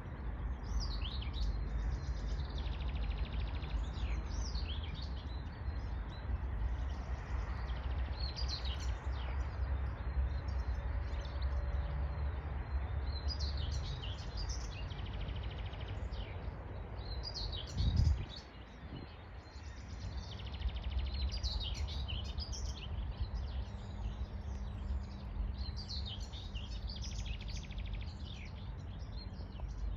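Several songbirds singing and chirping in short repeated phrases over a steady low rumble of wind. About eighteen seconds in there is one brief loud thump.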